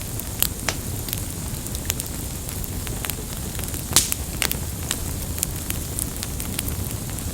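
Campfire burning: a steady low rumble of flames with scattered sharp crackles and pops from the wood, the loudest pop about four seconds in.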